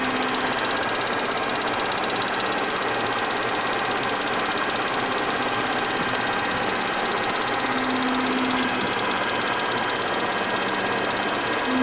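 Steady machinery noise on the flight deck of a Boeing 737-200 freighter on the ground: a constant hiss with faint steady whines, and a low hum that comes and goes about three times.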